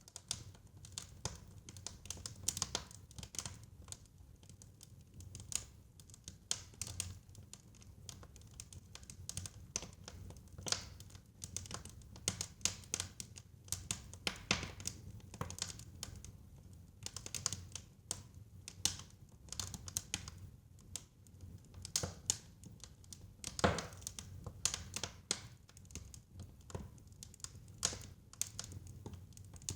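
Fire crackling in a fireplace: irregular sharp pops and snaps, a few louder than the rest, over a low steady rumble.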